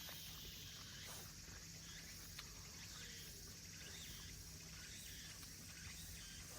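Cicadas droning steadily in a summer forest, a high continuous buzz, with a few faint short chirps over a low steady rumble.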